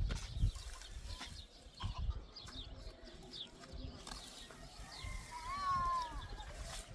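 Farm and outdoor animal sounds: scattered short chirps, with one smooth arched animal call a little under a second long about five and a half seconds in, over a low rumble.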